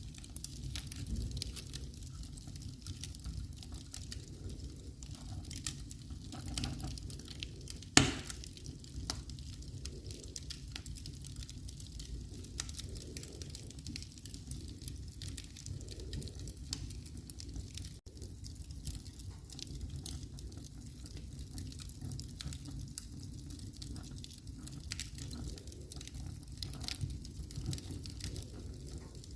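Wood fire burning in a fireplace, crackling steadily with many small snaps over a low rumble, and one loud pop about eight seconds in.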